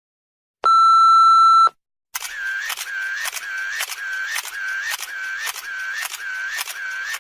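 A steady electronic beep lasting about a second, then a different electronic sound effect that pulses about twice a second, each pulse a short tone that dips and rises in pitch with a click at its start.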